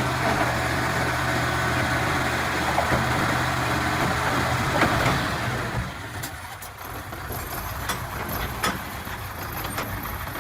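Komatsu D31-P bulldozer's diesel engine running steadily, then dropping off about six seconds in, after which it continues more quietly with scattered sharp clicks and clanks.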